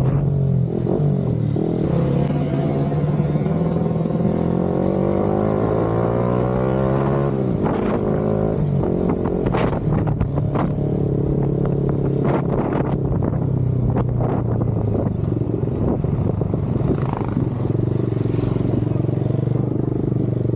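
Yamaha R15 V4M's 155 cc single-cylinder engine through an M4 aftermarket exhaust, rising in pitch for several seconds and dropping sharply about seven seconds in. It then runs steadily at a lower pitch, with a few sharp clicks in the middle.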